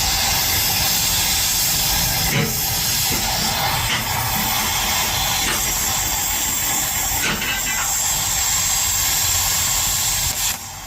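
A loud, steady hiss with a few faint knocks, dropping away briefly near the end.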